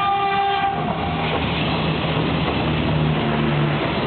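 Passenger train horn sounding a steady chord that cuts off under a second in, then the steady running noise of the train on the rails, with a low motor hum underneath.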